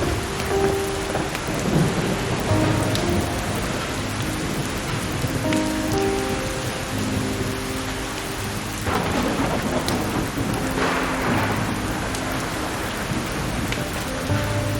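Steady rain with a rumble of thunder building about nine seconds in and lasting a few seconds, over soft music of long held notes. A few sharp crackles from burning firewood.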